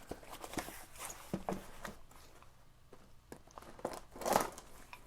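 Cardboard parcel being cut and opened by hand: scattered soft scrapes, taps and rustles, with a louder rustle about four seconds in.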